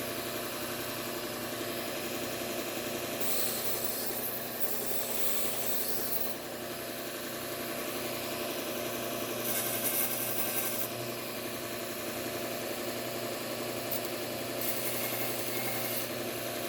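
Bucktool slow-speed belt sander running with a steady motor hum, while a serrated knife blade is ground against the moving abrasive belt. There are three passes of a few seconds each, heard as a grinding hiss about three seconds in, near the middle, and near the end.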